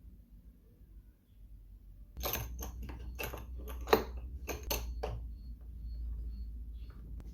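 Light metallic clinks and knocks, about a dozen over three seconds, starting about two seconds in, as metal parts are handled or set in place.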